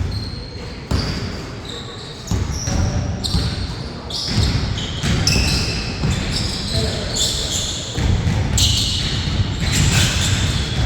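Basketball game play: the ball bouncing on the court floor again and again, with short high sneaker squeaks from players moving.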